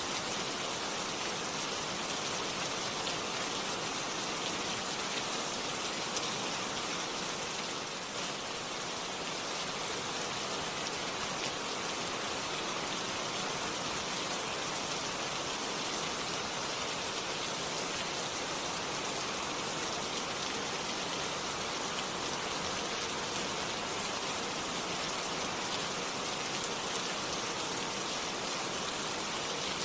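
Steady rain falling, a dense, even patter of drops on a hard surface with no thunder.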